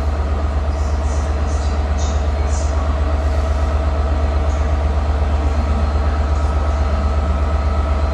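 Class 67 diesel locomotive idling at the platform, its two-stroke V12 engine giving a deep, steady throb that does not change.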